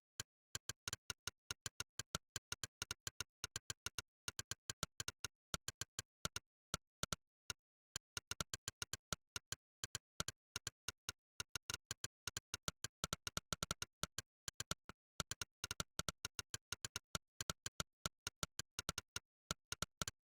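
Monkeytype's 'click' typing sound effect: a short, sharp digital click for each keystroke, coming in quick runs of several a second, with brief pauses about seven and a half and fifteen seconds in.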